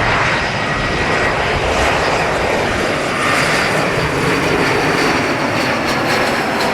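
Jet engines of an Embraer E170 regional airliner on its landing, a loud, steady noise with faint tones that slowly shift in pitch.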